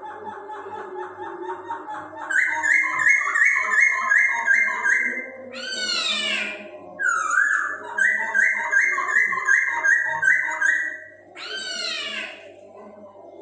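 A poksay Hongkong singing: runs of quick repeated whistled notes, about three a second, broken twice by loud downward-sweeping calls.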